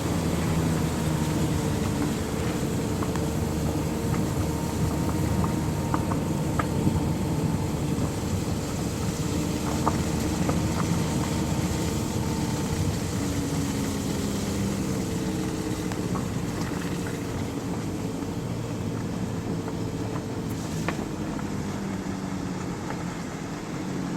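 A steady engine drone whose pitch drifts slowly, over a hiss of wind or road noise.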